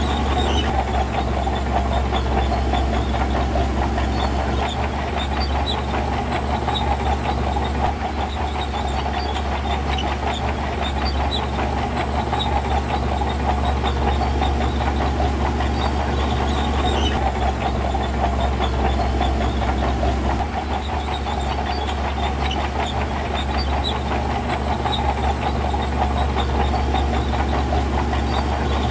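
Diesel engine of heavy earthmoving machinery running steadily under work, with a deep hum, a rattly mid-pitched drone and scattered small clanks, the note shifting slightly a few times.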